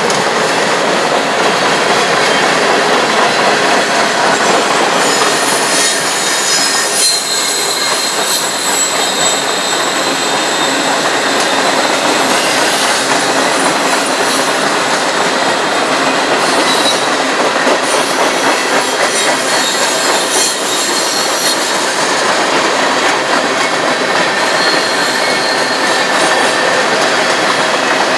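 Norfolk Southern mixed freight train's cars rolling past on steel wheels: a steady rail noise, with high-pitched wheel squeal coming and going from about five seconds in.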